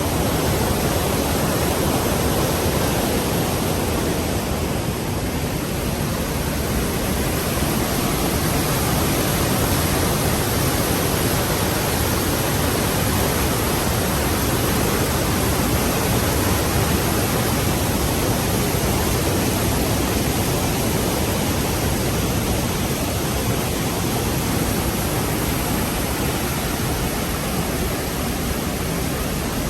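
The Rhine Falls: a large volume of water pouring over the falls, a steady dense rush of water with no change.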